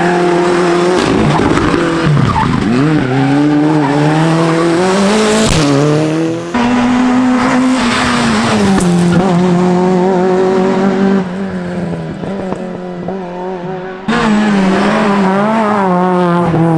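Rally cars driven flat out on a stage, their engines revving high and dropping repeatedly through gear changes and braking, with pitch dips as cars pass close by. The sound changes abruptly about a third and about five-sixths of the way in as one car's pass gives way to another's.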